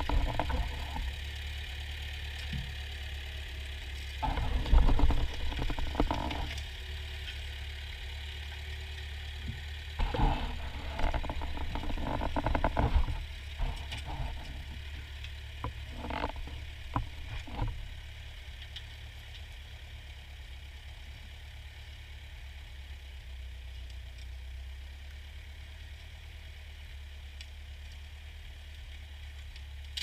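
A Ford farm tractor's engine running with a steady low hum. There are irregular louder clattering bursts during roughly the first eighteen seconds, then an even, steady run.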